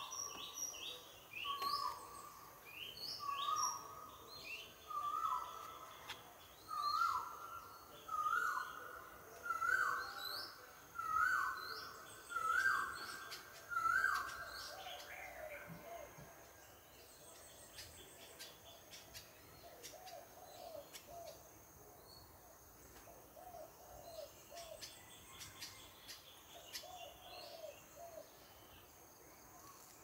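Forest birds calling: one bird repeats a short whistled note about every one and a half seconds, each a little higher and louder than the last, over scattered higher chirps. About halfway through the series stops, and a softer, lower wavering call repeats every few seconds.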